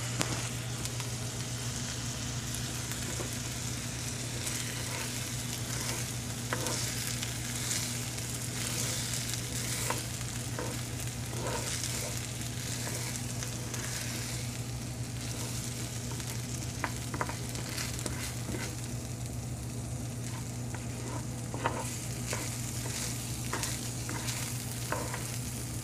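White rice sizzling as it toasts in melted butter in a pan, with a spoon stirring and now and then clicking against the pan, over a steady low hum.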